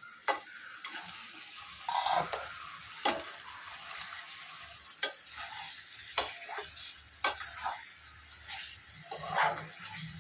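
Chicken and masala sizzling in a hot pan while being stirred with a spoon, the spoon knocking against the pan every second or two.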